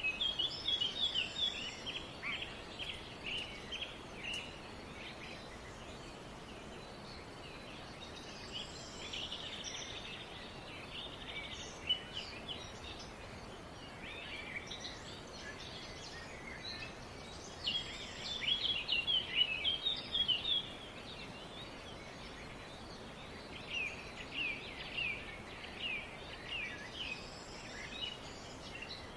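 Small birds chirping in bouts of rapid, high calls with short pauses between, over a steady background hiss.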